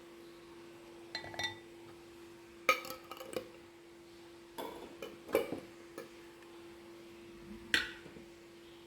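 Dishes and kitchen utensils being handled: a string of short clinks and knocks, the sharpest about three seconds in and near the end, over a faint steady hum.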